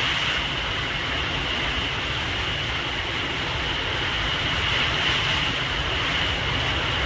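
Hurricane wind blowing hard and steadily through trees, with a low, choppy rumble of wind buffeting the microphone.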